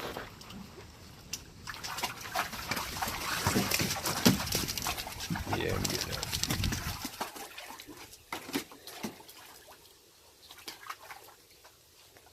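Puppies making short whines and grunts over scuffling and clicking. The sounds are loudest in the first half and thin out to a few scattered clicks near the end.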